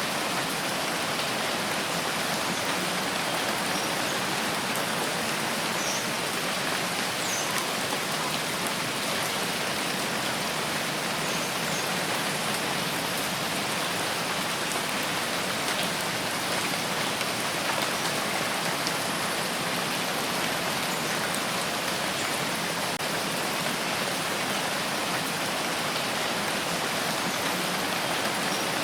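Steady rain falling, an even hiss of many drops striking a surface.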